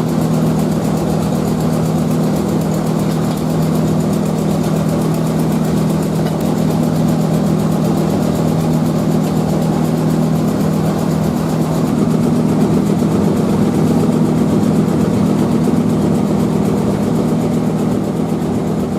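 Steady, loud mechanical drone of a motor running, a low hum under a rushing noise, unchanging throughout.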